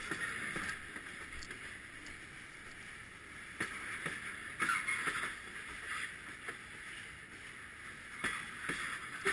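Freight cars rolling past close by, steel wheels running on the rails with a steady rushing noise and irregular sharp clicks and knocks.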